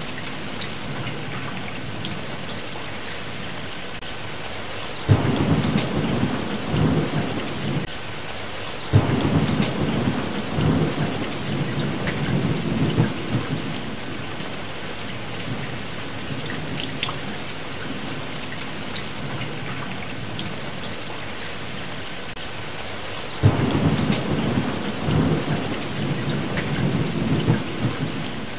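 Steady heavy rain with thunder rolling three times. Each roll starts suddenly and rumbles low for a few seconds, about five, nine and twenty-three seconds in.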